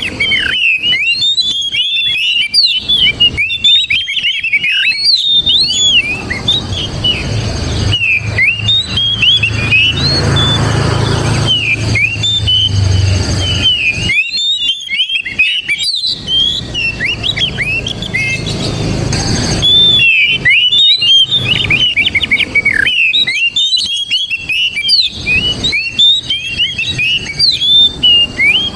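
Oriental magpie-robin (kacer) singing a long, rapid run of sharp whistled and chattering notes with quick pitch glides. A low rumble runs underneath through the middle of the song.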